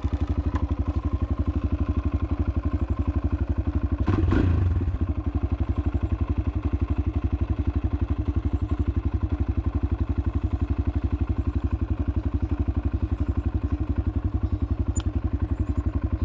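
Kawasaki KLX140L's small air-cooled four-stroke single idling just after a cold start, with a steady, even firing beat and one brief louder burst about four seconds in. It runs cleanly with no ticking.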